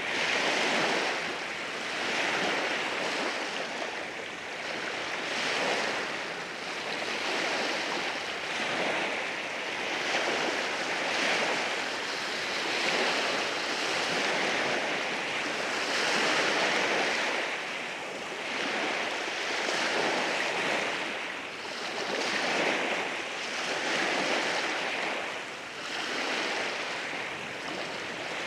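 Waves washing in over a rocky shore, a continuous hiss of surf that swells and eases every couple of seconds as the water breaks and draws back over the rocks.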